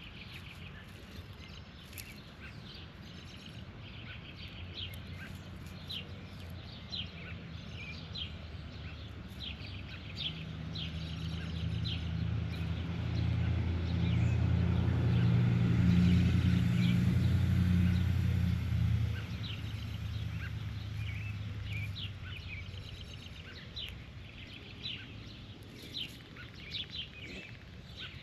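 Birds chirping in short, repeated calls while a motor vehicle passes by, its engine sound swelling to a peak about halfway through and then fading away.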